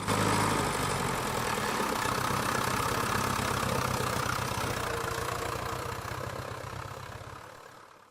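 Engine of an industrial log saw running steadily with a fast even pulse, fading out over the last second or two.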